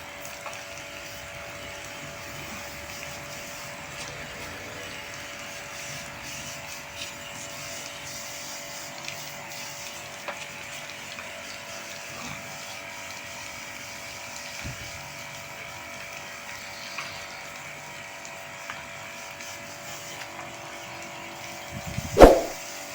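A small electric motor runs with a steady hum and hiss, and a loud metallic clang sounds near the end.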